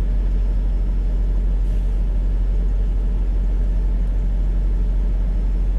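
Vehicle engine idling, heard from inside the cab as a steady low rumble.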